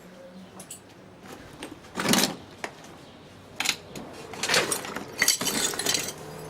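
Scattered clatter and clinks of debris in a shell-damaged house, like broken glass and rubble being stepped on or shifted: one sharp crash about two seconds in, another near the middle, then a busier run of clinks and scrapes near the end.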